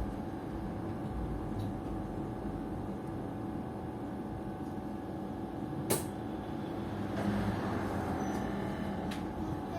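Cabin noise of a PKTS-6281.01 'Admiral' trolleybus under way: a steady rumble with a faint steady whine, a single sharp click about six seconds in, and the noise growing a little louder about seven seconds in.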